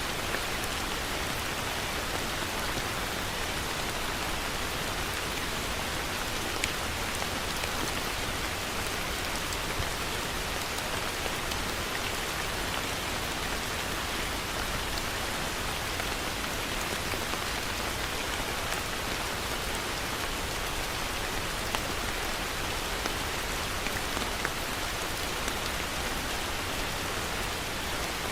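Heavy rain falling steadily, with a few separate drop impacts ticking out above the constant hiss.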